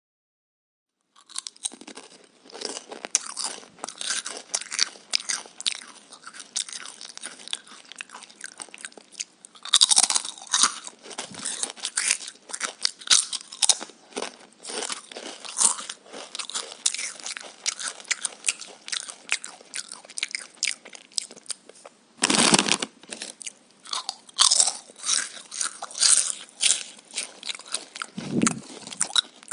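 Close-up crunching and chewing of raw vegetables: a dense, irregular run of crisp crunches that starts about a second in, with a few louder bites along the way.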